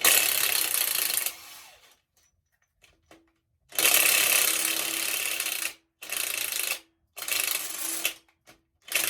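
Impact wrench running in five short bursts with pauses between, spinning out the cylinder head bolts of a Ford 302 V8, a corroded bolt just freed with WD-40.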